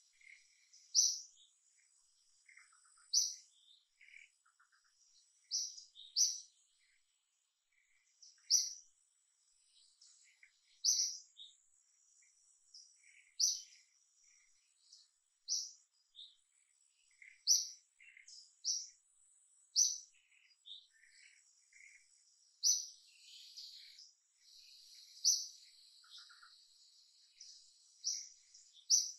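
Small birds chirping: short, sharp high notes repeating about every two seconds, with fainter chirps in between and a faint steady high whine, like an insect, underneath.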